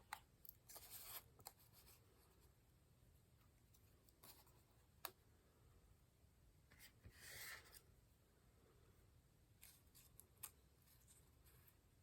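Near silence, with faint rustles and a few light ticks of small paper cutouts being slid and placed on a paper journal page.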